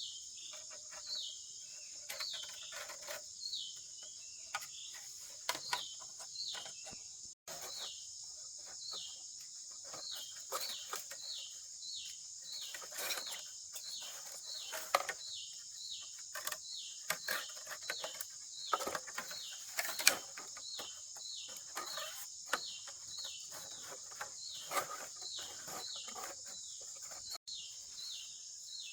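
Outdoor ambience: a steady high drone of insects, with a bird repeating a short falling chirp about twice a second. Scattered clicks and knocks of handwork run through it, with one sharp knock about two-thirds of the way through.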